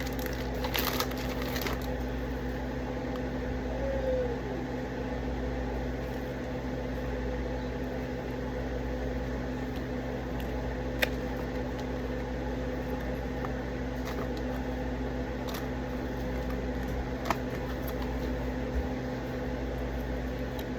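Steady mechanical hum of a running kitchen appliance, with a few light clicks and taps, the sharpest about eleven seconds in.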